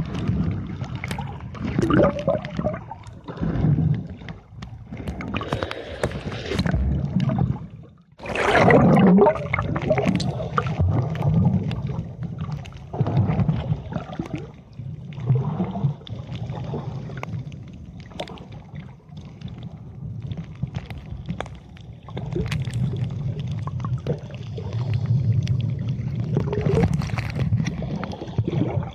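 Water sloshing and gurgling close around the camera in uneven surges, with a sharp dropout about eight seconds in followed by the loudest surge.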